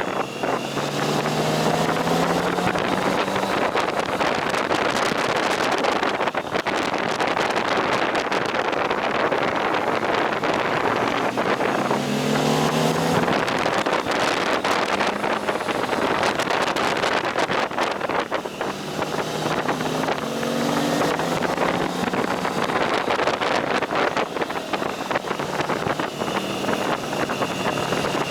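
Motorcycle riding at speed: steady engine and road noise under heavy wind buffeting on the microphone. The engine note rises briefly a few times, about a second in, around twelve seconds, and around twenty seconds.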